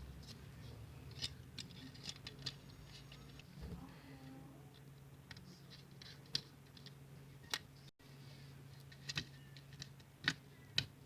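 Scattered light clicks and taps from small tools and the mouse's plastic parts being handled during the repair, some in quick clusters, over a low steady hum.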